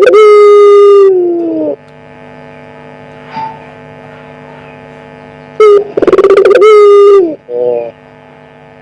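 Puter pelung dove (domestic ringneck dove) cooing: two long, drawn-out coos about five seconds apart, each falling in pitch at the end, the second followed by a short note. A steady electrical hum runs underneath.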